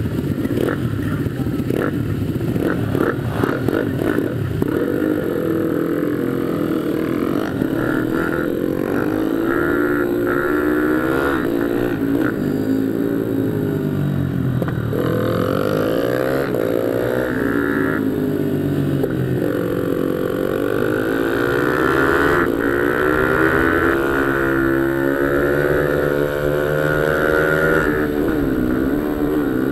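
Pit bike engine on a minimotard, revving hard and climbing in pitch, then dropping away again and again as the bike accelerates through the gears and slows for corners.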